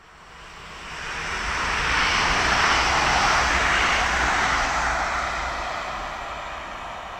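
A train passing by: a rushing noise with a low rumble underneath that swells over the first two seconds, holds loud for a couple of seconds, then slowly fades away.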